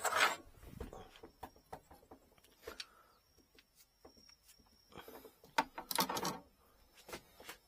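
Light clicks, knocks and rustling from objects being handled on a work surface, with a louder burst of rustling and knocking about two-thirds of the way through.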